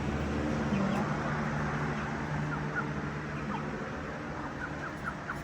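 Chickens in a coop giving soft, short clucks and chirps, scattered and more frequent near the end, over a steady low hum.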